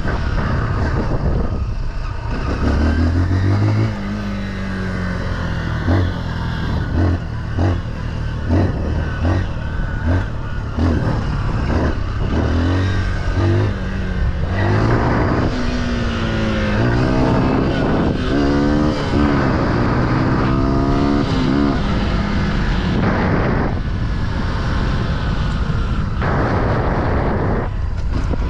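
Small single-cylinder off-road engine under way, its pitch climbing and dropping back again and again as it accelerates and eases off, with rough rushing noise beneath.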